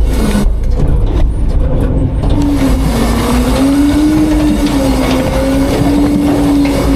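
Front-load garbage truck's diesel engine running at raised revs to drive the hydraulic packer, with a deep rumble and a steady whine that dips in pitch and then rises and levels off.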